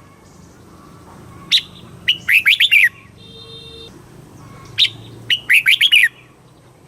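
Red-whiskered bulbul singing two short phrases. Each phrase is a sharp opening note followed by a quick run of about five chirping notes, each sliding down in pitch.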